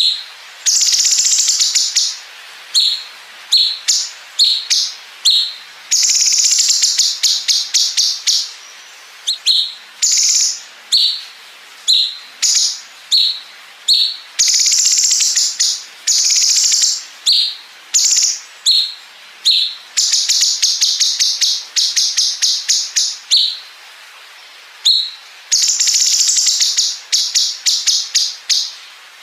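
Cucak cungkok, a bulbul kept as a songbird, singing long, very rapid machine-gun-like trills ('bren') of one to two and a half seconds, alternating with runs of short, sharp, high chirps.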